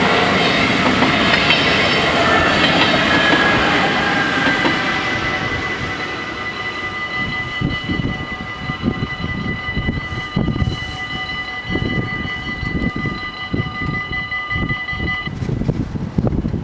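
NS SGMm Sprinter electric train passing over a level crossing, its rumble and rush fading over the first five seconds. Under it the crossing's warning bells ring in one steady high tone, which cuts off suddenly about fifteen seconds in as the crossing opens.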